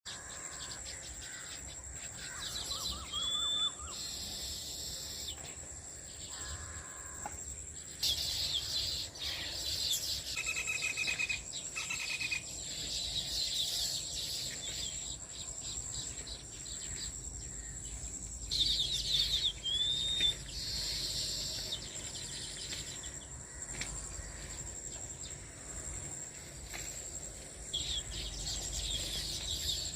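Baya weavers chattering in buzzy, chirping trills. Twice the chatter ends in a short rising-and-falling whistle. A steady high cricket drone runs underneath.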